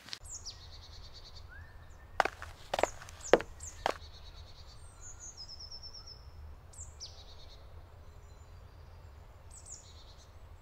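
Forest songbirds chirping and singing in short high phrases, one of them a quick run of repeated notes. About two to four seconds in come four sharp knocks.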